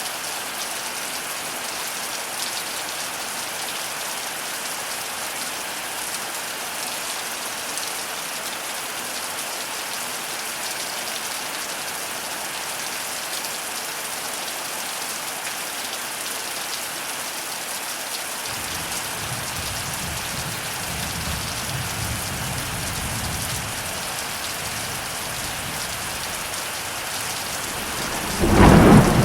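Heavy thunderstorm rain falling steadily as an even hiss. About two-thirds of the way in, a low rumble of thunder rolls for several seconds, and near the end a loud, sudden clap of thunder breaks out.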